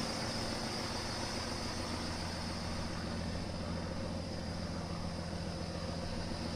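A semi-truck's Cummins ISX diesel engine idling steadily, a low even hum over a faint hiss.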